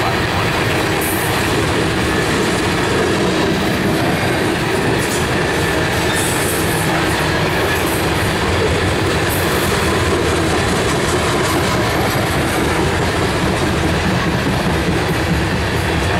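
Steel coal gondola cars of a BNSF unit coal train rolling past on steel rails: a steady, continuous noise of wheels on rail.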